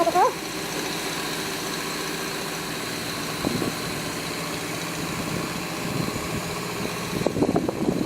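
Ruston engine running steadily, an even idling drone.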